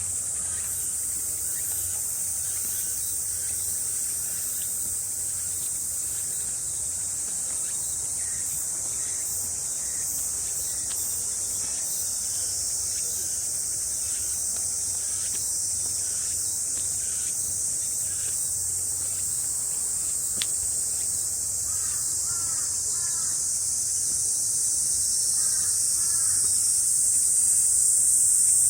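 A chorus of summer cicadas keeps up a steady, high-pitched buzz that swells louder over the last few seconds. A few short bird chirps break through about two-thirds of the way in and again near the end.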